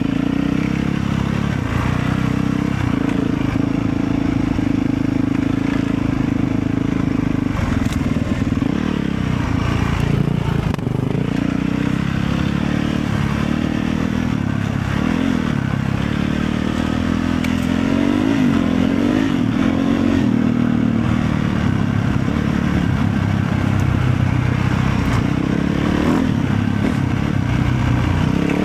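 Motorcycle engine running steadily while riding, its revs rising and falling a few times in the second half.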